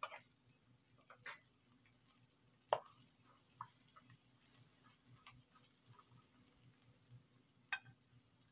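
Green chilies frying in oil in a pan with faint, steady sizzling. A wooden spatula stirring them knocks and scrapes against the pan a few times, loudest just before three seconds in.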